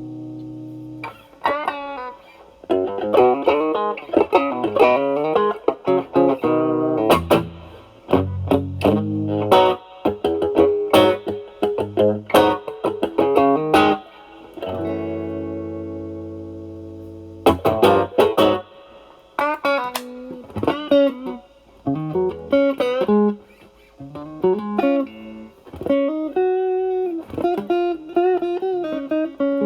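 Fender Stratocaster with single-coil pickups played through an Ibanez Tube Screamer Mini overdrive pedal into a Marshall Valvestate amp's clean channel, giving a lightly driven tone. Blues-style improvised licks with string bends, between a ringing chord at the start and another held chord near the middle.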